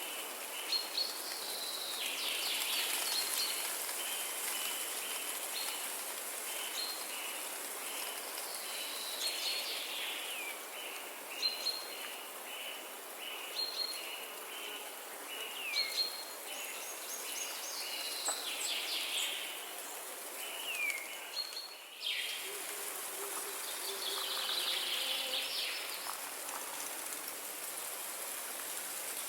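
Birds chirping and calling over a steady high hiss of background noise: a short chirp repeated over and over, with other birds' notes and quick falling whistles mixed in. About three quarters of the way through the sound changes abruptly to a different mix of bird calls.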